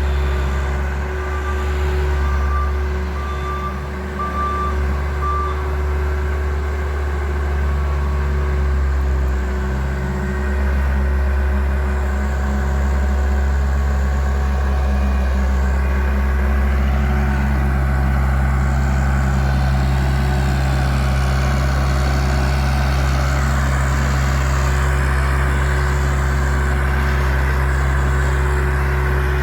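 Bobcat construction machine's engine running steadily under work, with its reversing alarm beeping for the first few seconds.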